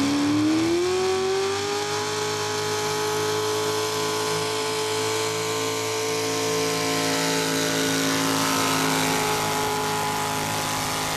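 A pulling truck's engine revs up, climbing in pitch over the first couple of seconds, then is held wide open at a steady high pitch.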